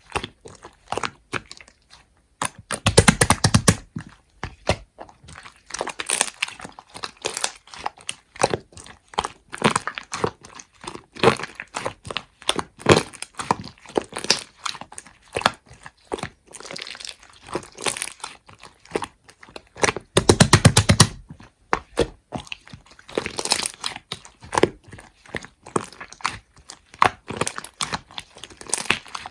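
Slime being squeezed, poked and stretched by hand, giving a dense run of crackling, popping clicks and crunches. Two louder, fuller squelching presses come about three seconds in and again about twenty seconds in.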